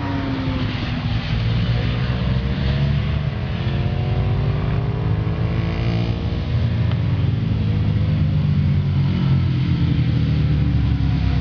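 Engines running over a steady low rumble, their pitch gliding slowly up and down with changing revs.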